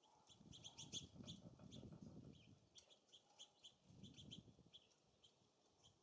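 Small songbirds at a feeder giving quick, faint high chirps and call notes in clusters, over gusty wind rumble on the microphone.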